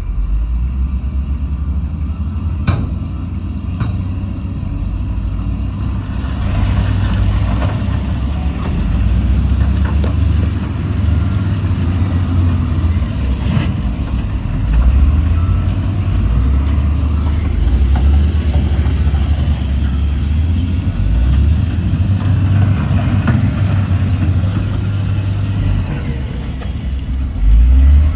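Heavy diesel construction machinery running with a deep, steady rumble and a few sharp knocks. A rushing noise joins about six seconds in.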